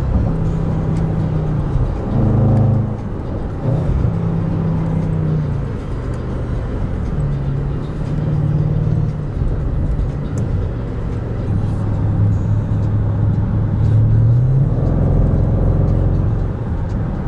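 Range Rover SVR's supercharged V8 engine and exhaust on the move, its low note rising and falling with the revs, with a climb in pitch near the end.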